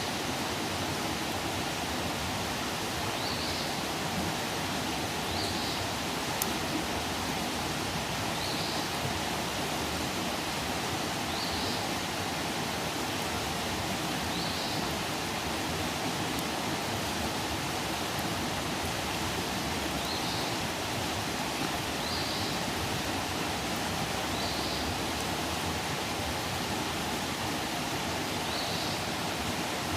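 Campfire burning with a steady rushing hiss and a rare faint pop. A short high chirp sounds about every two to three seconds.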